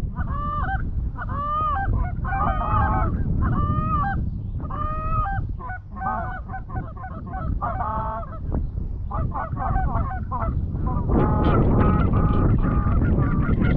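Canada geese honking: a series of separate honks about one a second, swelling into a denser chorus of many overlapping honks about eleven seconds in, over a steady low rumble.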